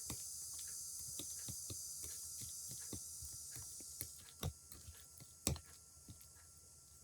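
Cicadas buzzing in a steady high chorus that fades out about four seconds in, with light scattered clicks and taps throughout and two louder knocks near the middle.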